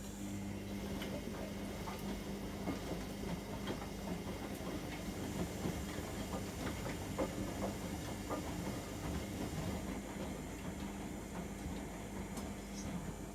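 AEG Öko-Lavamat 73749 front-loading washing machine in its wash phase. The drum motor starts up with a steady hum, and wet laundry tumbling in the drum makes irregular clicks and swishes.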